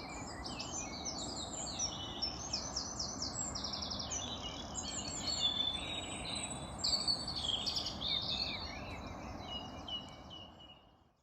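Many songbirds singing at once, a dense mix of chirps and trills over a steady low background rumble, fading out near the end.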